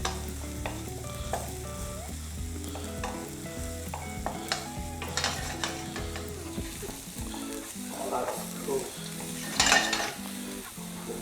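Onions frying in a pan, sizzling, while a utensil stirs and scrapes them, with a louder scrape near the end. Music with a bass line plays underneath.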